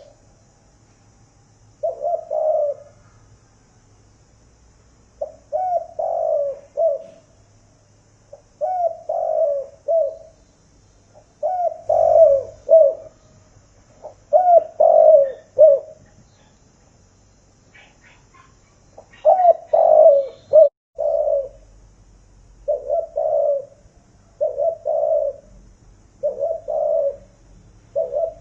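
Female spotted dove cooing in short low phrases, a new phrase every two seconds or so with a longer pause in the middle. It is a hen's call that sets off the males.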